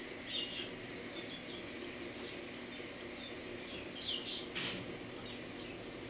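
Small birds giving short, high-pitched chirps: a little group about half a second in and another around four seconds in. A sharp click comes just after the second group, over a steady low background hum.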